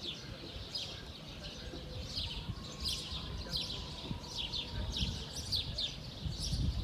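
Small birds chirping over and over, short high calls that drop in pitch, about two a second, over a low murmur of outdoor background noise.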